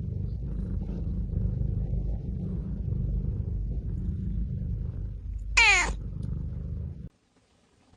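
Cat purring steadily and close up, with one short falling meow about five and a half seconds in. The purr cuts off abruptly about a second before the end.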